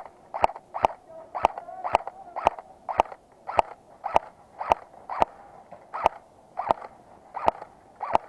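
Airsoft gun firing single shots in a steady string, about two sharp cracks a second, with the gaps widening slightly near the end.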